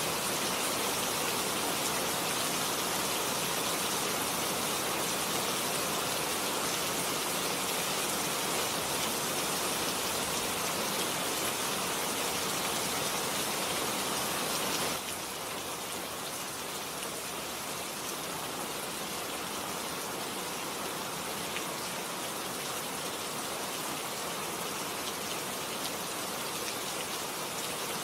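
Steady rain falling, an even hiss with scattered drops. About halfway through it drops suddenly to a slightly quieter, thinner hiss.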